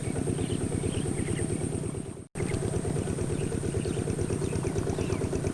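A motor running steadily with a fast, even pulsing drone, cut off for an instant a little over two seconds in. Faint short high chirps sound over it.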